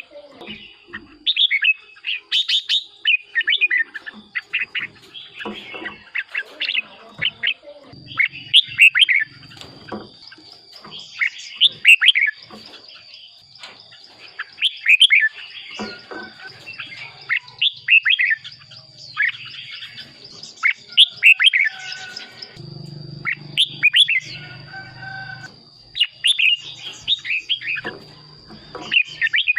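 Red-whiskered bulbul singing: short, quick phrases of bright whistled notes that fall in pitch, repeated every second or two. A steady high-pitched whine runs underneath, and a low hum joins in over the last several seconds.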